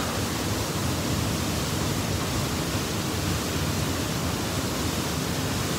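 Waterfall's steady rush of falling water, an even hiss with no change.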